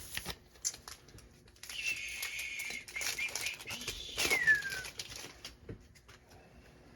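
Plastic wrapper of a football card pack being torn open and crinkled, with a few clicks of handling. The scratchy tear runs for about two and a half seconds and ends in a brief falling squeal.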